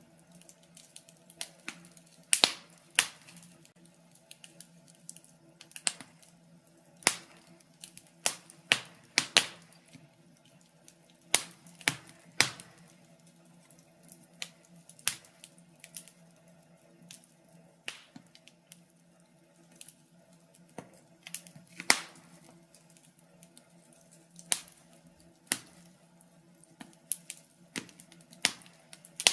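Wood fire crackling in a fireplace: irregular sharp pops and snaps at uneven intervals over a faint steady low hum.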